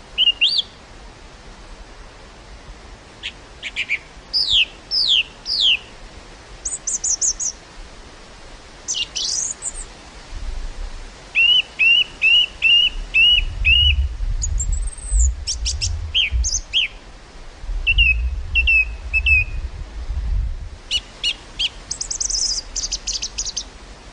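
Several songbirds chirping and calling in short, varied phrases, including a quick run of about six repeated notes near the middle, over a steady hiss of wind through a field. Low gusts of wind rumble on the microphone through the middle stretch.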